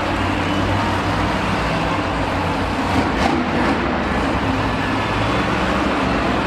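A monster truck's engine running loud and steady, with one brief sharp knock about three seconds in.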